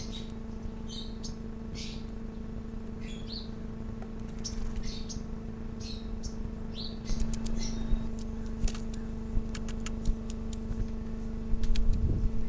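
Small backyard birds chirping in short, repeated high calls, over a steady low hum. About seven seconds in, a low rumble comes in with a run of sharp clicks.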